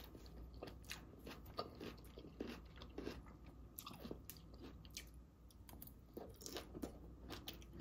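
A person chewing a crunchy raw vegetable salad close to the microphone: quiet, scattered crunches and wet clicks as it is bitten and chewed.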